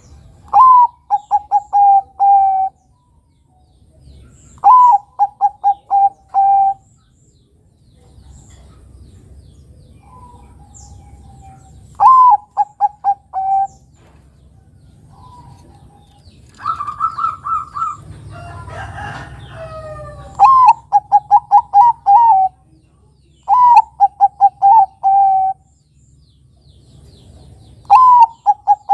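Zebra dove (perkutut) singing: about six cooing phrases, each a rising opening note followed by a quick run of short staccato coos. In the middle, a different, longer and rougher bird call.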